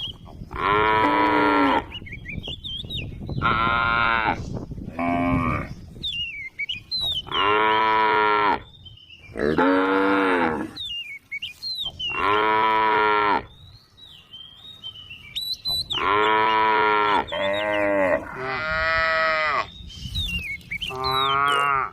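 A cow mooing over and over, about nine long calls of a second or so each, with short gaps between them. Short high chirps are heard in the gaps.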